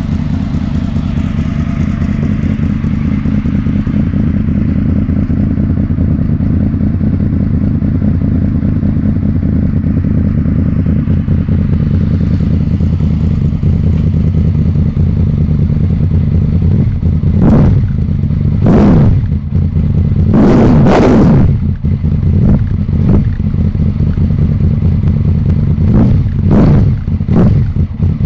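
A 2002 Honda VFR800 VTEC's V4 engine, running through a freshly fitted Leovince SBK EVO II exhaust with no baffles, idling steadily just after starting. A little past the middle come a series of short throttle blips, each rising and falling quickly. One of them, a double rev, is held a little longer.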